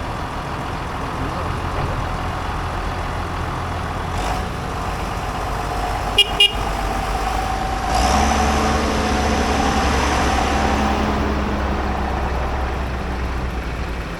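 Tractor engines running as tractors drive past, with two short horn toots about six seconds in. From about eight seconds a louder tractor engine passes close by, then fades a little.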